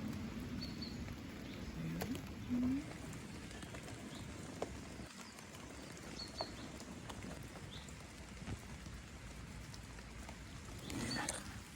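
Rain falling with scattered drips, a few short high bird chirps, and a brief low call about two seconds in.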